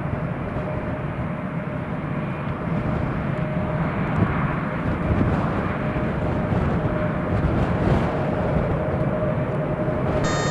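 Steady jet airliner engine noise, with gusty wind rumbling on the microphone in strong wind.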